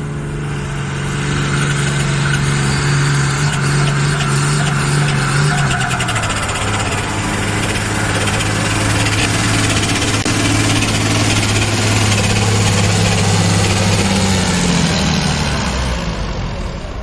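Pulling tractor's diesel engine at full power hauling the weight-transfer sled. Its pitch drops about six seconds in as the engine is pulled down under the growing load, then it holds low until the driver comes off the power near the end.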